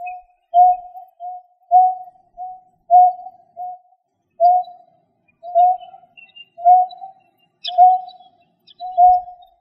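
Recorded lure call of a bird: a low, hollow single-pitched note repeated steadily, at first in strong-weak pairs about two notes a second, then as single slightly longer notes about once a second. Faint high chirps sit in the background.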